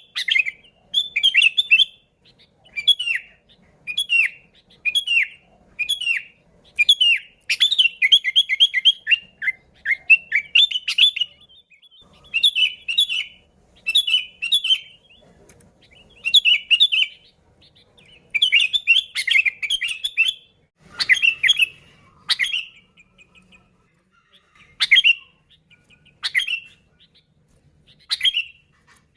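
Sooty-headed bulbul (kutilang) singing vigorously in short, bubbling chirpy phrases about once a second. Near the end these thin out to single sharp notes a second or two apart.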